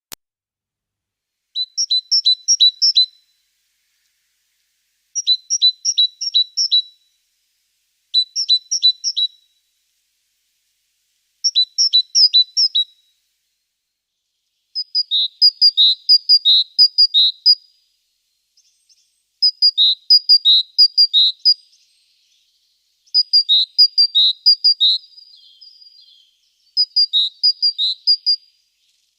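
Small songbird singing, about eight short phrases of quick, high, repeated notes, each phrase a second or two long with a pause between.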